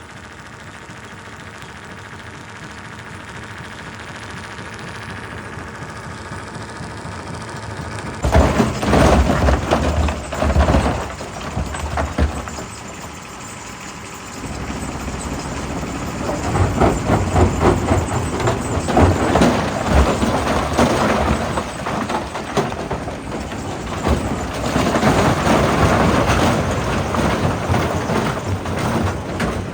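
Quarry rock-crushing machinery: a steady machine hum that slowly grows louder for about eight seconds, then suddenly gives way to loud, irregular crunching and rumbling as rock goes through the crusher.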